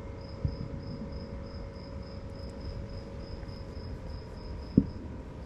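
Crickets chirping in a steady high pulse, about three chirps a second, over a low rumble. Two dull thumps cut through, one about half a second in and a louder one near the end.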